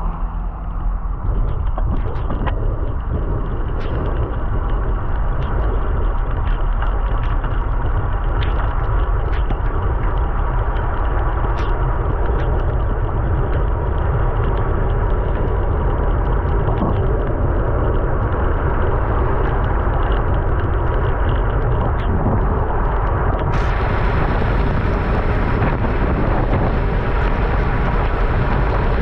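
Steady rush of wind and wet-road noise from riding a bicycle in the rain, dotted with many small ticks and clicks.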